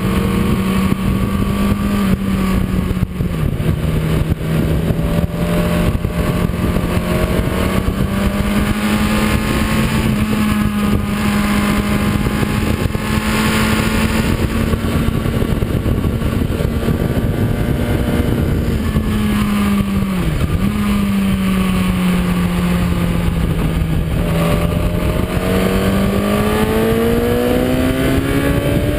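Kawasaki ZX-10R's inline-four engine pulling hard at speed on a race track, heard onboard under heavy wind rush. The engine note holds mostly steady, with a brief dip about three seconds in and another about twenty seconds in; after the second dip the pitch sinks, then rises again near the end as the bike accelerates.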